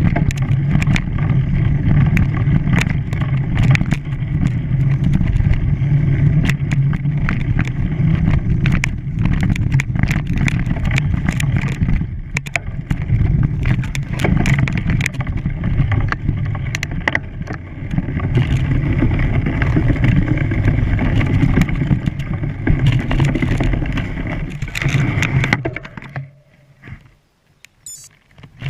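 A motor running steadily, with scattered small knocks, fading almost to nothing for a couple of seconds near the end.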